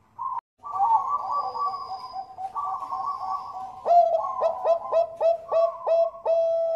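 Perkutut bangkok (Thai-bred zebra doves) cooing, with more than one coo line overlapping. About four seconds in, a run of short, rapid coo notes, about two a second, leads into a longer held coo near the end.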